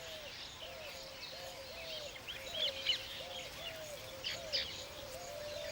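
Birds chirping, with a few sharp chirps loudest around the middle, over a low note that repeats a couple of times a second.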